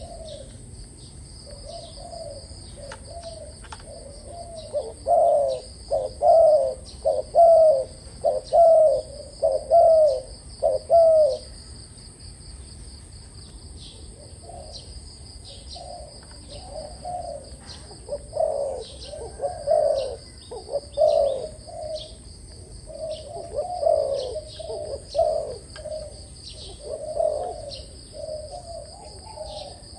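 Spotted dove cooing: a run of about six loud coos from roughly five to eleven seconds in, then after a pause a longer, less regular series of coos. A steady high-pitched whine runs underneath.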